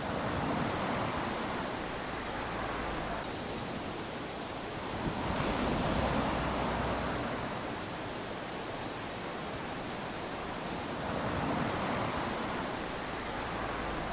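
Small waves lapping onto a sandy shore, a steady wash of surf that swells three times as waves break and run up the sand.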